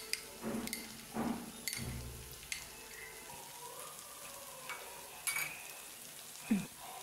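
Chopped onions, capsicum and green chillies sizzling in oil and sauce in a nonstick frying pan, a steady crackling hiss, with a few louder knocks and scrapes of stirring.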